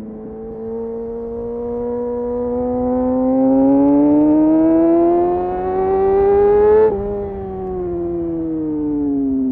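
Kawasaki Ninja motorcycle engine through an Arrow aftermarket exhaust with the dB killer removed, pulling steadily up through the revs for about seven seconds. The pitch then drops sharply, as on an upshift, and falls away steadily as the throttle is eased.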